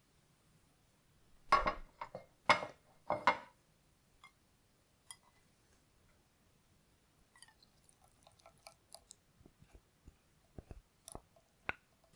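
Kitchen food-preparation handling sounds: a quick run of three or four knocks and clatters about a second and a half in, then scattered small clicks and taps.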